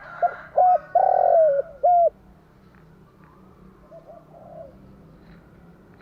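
Spotted dove cooing: a phrase of two short coos, one long drawn coo and a final short coo in the first two seconds, then fainter coos about four seconds in.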